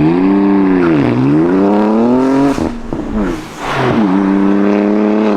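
BMW G82 M4's twin-turbo straight-six engine through its exhaust, revving: the engine note climbs and falls about a second in, climbs again, breaks off a little past halfway, then rises and holds high near the end.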